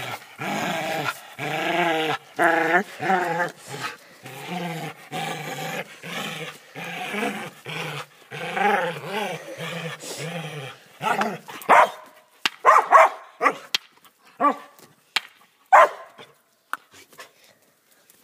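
Border collie vocalizing in a long series of rising and falling moaning calls, then giving a string of short, sharp barks about two-thirds of the way through.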